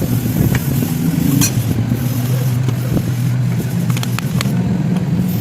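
A motorcycle engine running at a steady idle, with a few light clicks over it.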